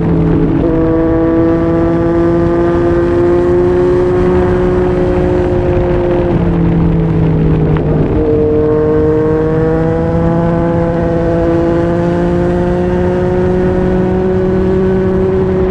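Yamaha MT-09's three-cylinder engine through a Yoshimura R55 slip-on exhaust, riding under steady load with its note slowly climbing. The pitch steps down about six seconds in and again near eight seconds, then rises again.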